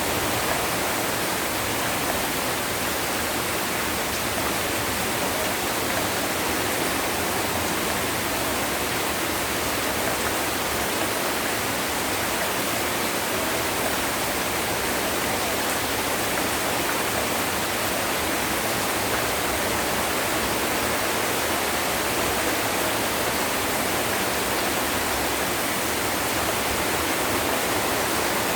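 Heavy rain falling steadily, an even dense hiss with no breaks or separate drops standing out.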